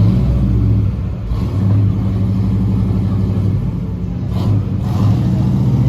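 Car engine running with a deep, steady exhaust rumble.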